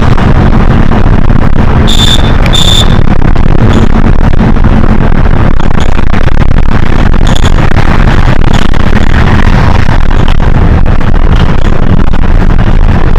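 Cabin noise of a Hino HS8JRVL-UTF city bus on the move: a steady, loud low engine and road rumble. Two short high electronic beeps sound about two seconds in.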